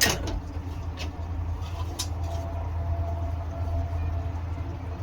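Scroll saw running steadily: a low hum with a faint whine, and light clicks about one and two seconds in.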